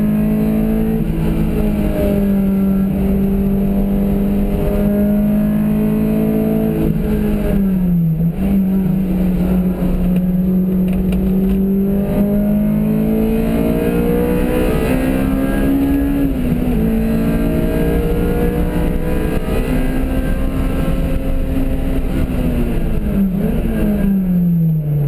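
A car's engine running hard on a track lap, heard from inside the cabin with road and wind noise. Its note holds steady, then falls sharply three times, about a third of the way in, past halfway and near the end, and climbs slowly again in between.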